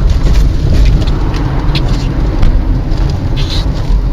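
Car driving fast, heard from inside the cabin: a steady heavy low rumble of engine and tyres on the road.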